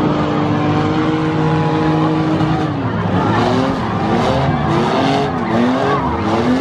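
Engines of demolition-style race cars running on a dirt track; from about three seconds in, an engine revs up and down again and again, with bursts of hissing noise.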